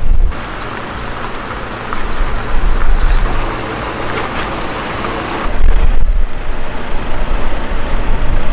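Road vehicle and traffic noise: a loud, noisy rush that eases off about two-thirds of the way through. Under it is a deep low rumble that swells several times.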